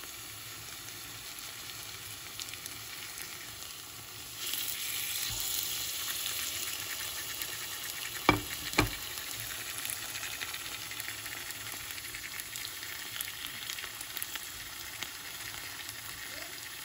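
Sugar-coated bananas sizzling as they fry in oil in a non-stick pan, the sugar caramelising. The sizzle grows louder about four seconds in, and two sharp knocks come close together a little past halfway.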